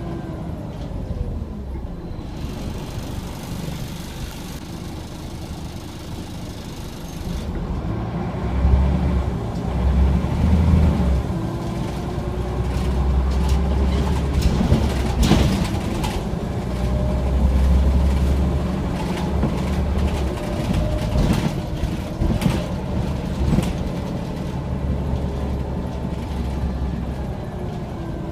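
Scania OmniCity single-deck bus in motion, heard on board: its diesel engine drones and pulls, the pitch rising and falling as the bus speeds up and changes gear, with rattles and knocks from the body. A hiss sounds briefly in the first few seconds.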